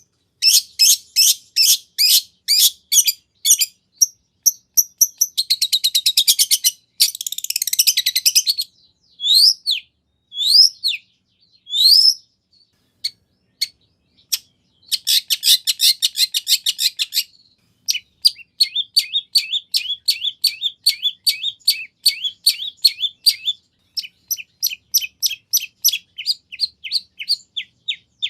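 Long-tailed shrike (cendet) singing a fast, varied song full of mimicked phrases: runs of sharp, high chip notes, dense rapid trills a few seconds in and again about halfway, and a few rising whistled upslurs in between.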